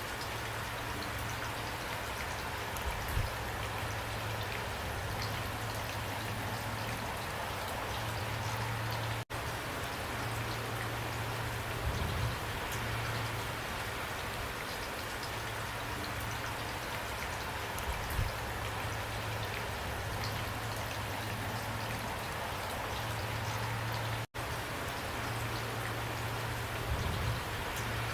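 Steady rain, an even hiss with scattered individual drops ticking and a few soft low thumps. Twice the sound cuts out completely for an instant.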